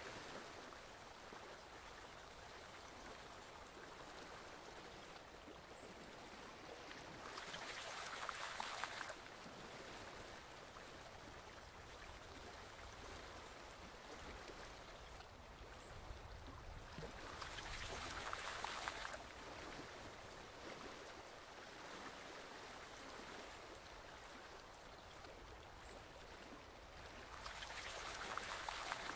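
Forest stream flowing in a steady, fairly faint rush of water, swelling louder for a couple of seconds about every ten seconds.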